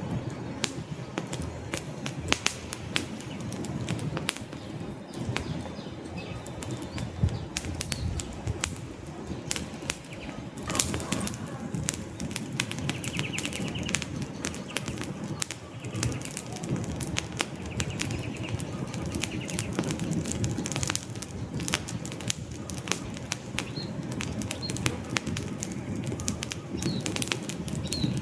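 Wood fire crackling: irregular sharp pops and snaps from burning logs over a steady low rush of flames.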